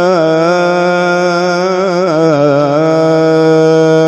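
Male Quran reciter (qari) drawing out the vowel of "lā" in one long melismatic note. The voice turns through quick ornamental wavers in the first few seconds, then settles on a steady held pitch.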